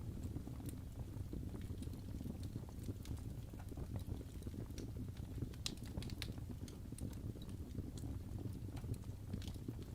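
Wood fire burning in a fireplace: a steady low rumble of flames with irregular crackles and sharp pops, a few louder pops about halfway through and again near the end.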